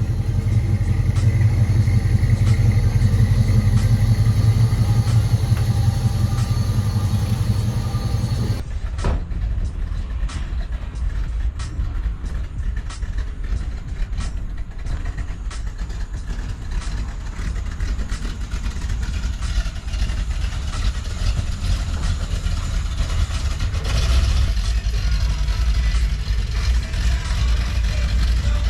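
A motor vehicle engine running with a steady low rumble. The sound changes abruptly about nine seconds in and then runs on slightly quieter.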